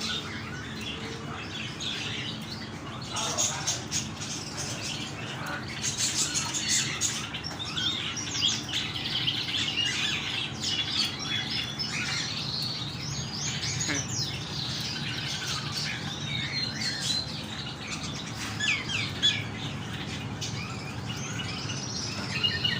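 Many small birds chirping and twittering at once in a dense, overlapping chorus of short high calls, over a steady low background hum.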